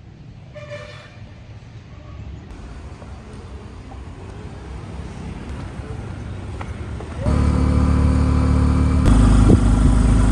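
Low road rumble growing slowly louder, then about seven seconds in a motorbike engine running close by, loud and steady. It jumps louder again about two seconds later.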